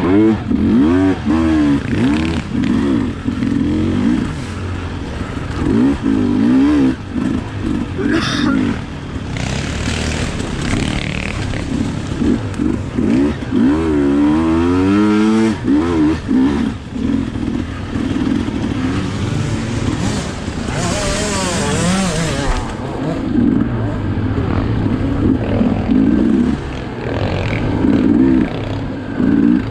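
Sherco 300 SE two-stroke enduro motorcycle engine being ridden hard, its revs climbing and dropping over and over with throttle and gear changes. A rushing noise rises over it twice, near a third of the way in and again about two-thirds in.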